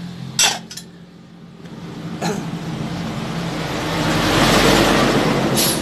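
A road vehicle passing by, its noise swelling to a peak a little past halfway and then fading, with a sharp click near the start and another near the end.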